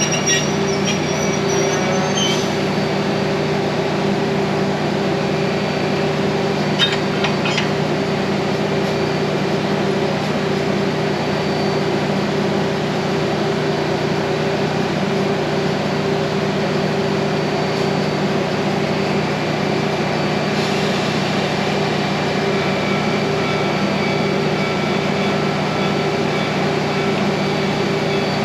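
A train standing at a station platform, its engine giving a steady, even drone with a few faint clicks near the start and about seven seconds in.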